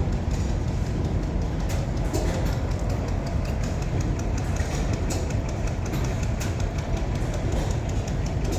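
A vintage engine running steadily: a continuous low rumble with irregular sharp clicks through it.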